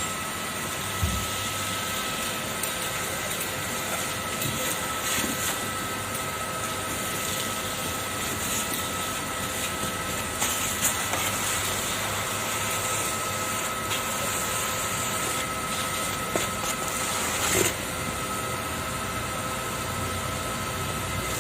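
Kärcher vacuum cleaner running steadily with a high motor whine, with a few brief knocks and rattles of debris along the way.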